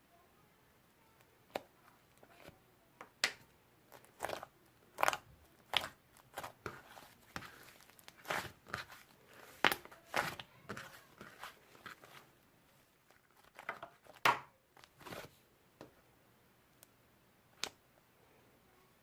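Slime being squeezed and poked by hand at close range, giving irregular crackling and crunching pops, busiest in the middle and again briefly near the end.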